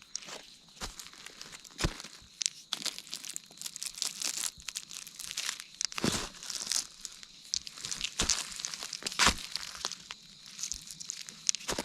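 Irregular rustling, crinkling and crunching in dry forest-floor litter, with scattered sharp cracks, while wild chestnuts are gathered from under the tree.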